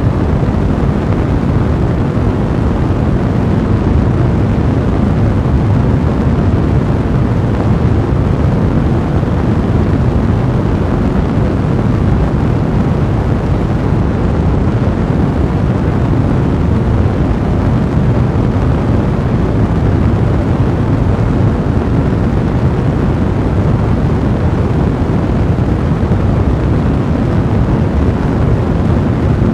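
Fire burning with a steady low rumble and dense, continuous crackling.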